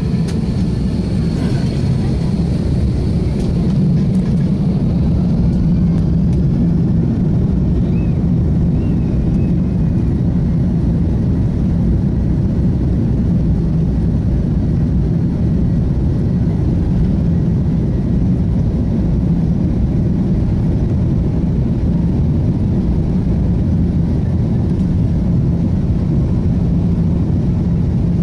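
Airbus A330 jet airliner's engines running, a loud steady low rumble that holds level throughout.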